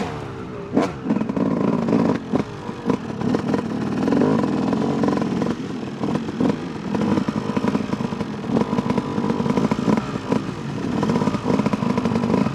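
Dirt bike engine ticking over at low revs with uneven small throttle blips, after a high-rev pull drops off at the start. There is a sharp knock about a second in and scattered clatter.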